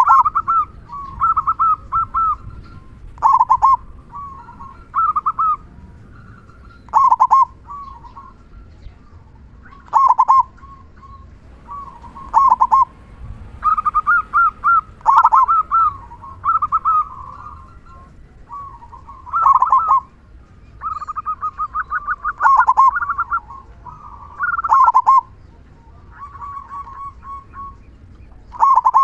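Zebra dove (perkutut) cooing over and over: each phrase is a quick run of short notes ending in a strong, deep "kung" note, repeating every two or three seconds.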